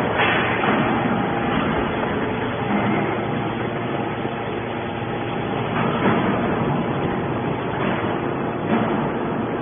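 Automatic hydraulic scrap baler compacting aluminium scrap: a steady machine drone with a few short knocks of metal.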